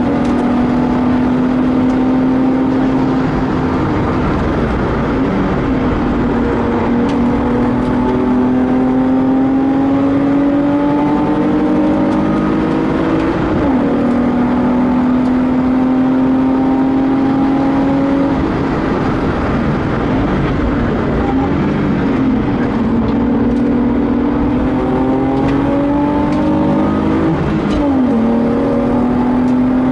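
BMW E36 320i coupé's swapped-in M50B25TU 2.5-litre straight-six, heard from inside the cabin under hard track driving. The engine pulls through the gears with its pitch climbing slowly, drops sharply at a gear change about 13 s in and again near the end, and dips and wavers in between as the car slows for a corner and picks up again. Tyre and wind noise run underneath.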